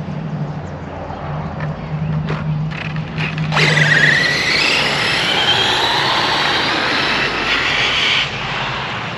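Brushless electric RC car running, with a few knocks, then accelerating hard about three and a half seconds in: a loud motor whine that sweeps in pitch over the rush of the tyres, cutting off sharply near the end as the throttle is released.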